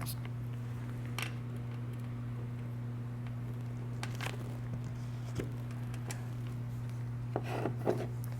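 Steady low electrical hum under scattered light clicks and taps of small parts being handled, with a short cluster of them near the end.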